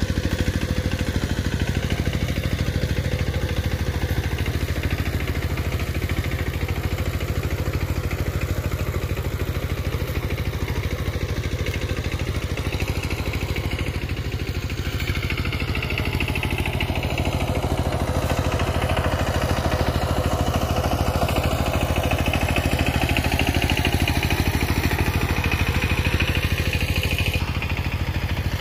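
Single-cylinder diesel engine of a two-wheel power tiller running steadily at an even speed, with a fast, regular firing beat and some clatter.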